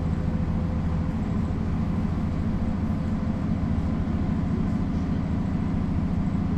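Mercedes-Benz O405 city bus's diesel engine running steadily under way, a continuous low drone heard from inside the bus.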